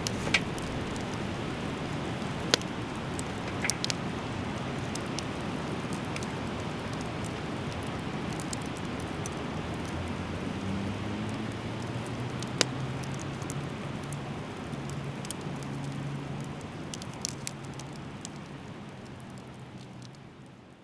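Driftwood fire burning with a steady hiss and occasional sharp pops and crackles, a few seconds apart. The sound fades away near the end.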